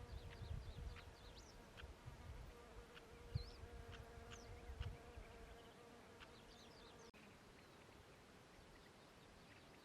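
A flying insect buzzing steadily near the microphone, which cuts off abruptly about seven seconds in, over a meadow background of faint high bird chirps and irregular low rumbles.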